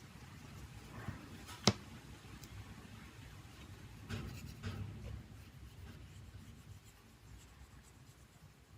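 Light handling of small tools and phone parts on a work surface: one sharp click about two seconds in, then a few soft scrapes and taps.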